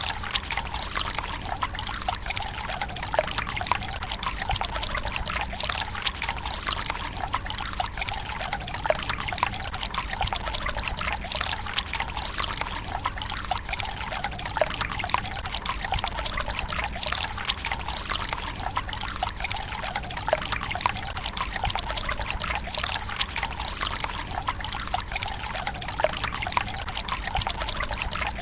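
Water running from a bamboo spout into the stone basin of a Japanese tsukubai: a steady pouring trickle, flecked with many small splashes and drips.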